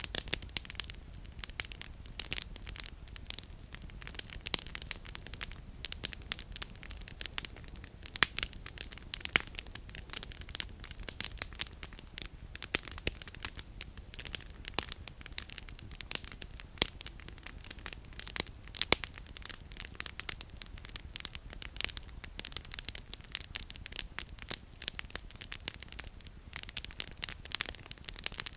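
Wood campfire crackling, with dense irregular pops and snaps of burning firewood over a low steady rush.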